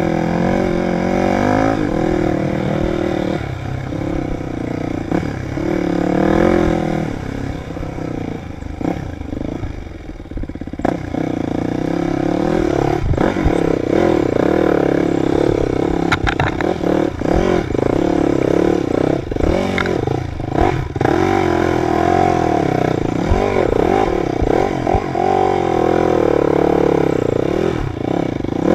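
Dirt bike engine revving up and down under constantly changing throttle while riding, with scattered knocks and clatter. The engine eases off for a few seconds about a third of the way in, then pulls hard again.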